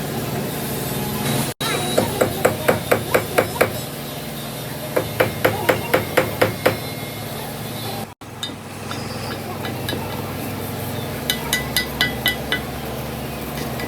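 Hammer striking metal in three quick runs of rapid blows, about five a second, with a ringing ring on each strike, over a steady low hum.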